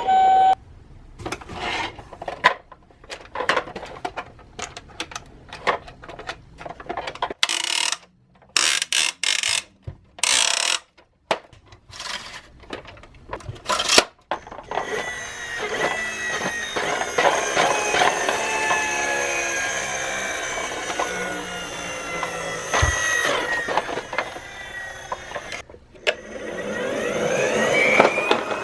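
Toy minicars clattering on a plastic course: many sharp knocks and clicks for about the first half, then a long continuous rattling run that stops shortly before the end.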